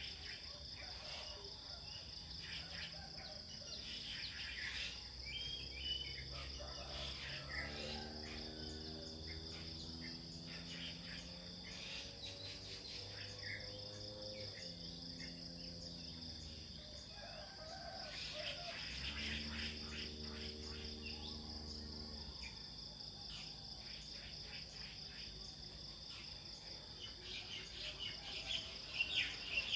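Nature ambience: a steady high insect drone of crickets with scattered bird chirps. Soft low sustained tones come and go in the background.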